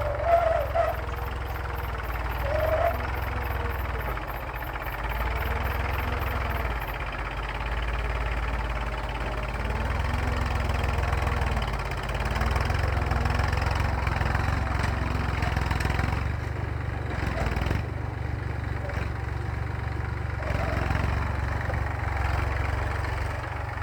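Massey Ferguson tractor engine running steadily under the load of ploughing, a continuous low drone. A few brief higher-pitched squeaks stand out near the start.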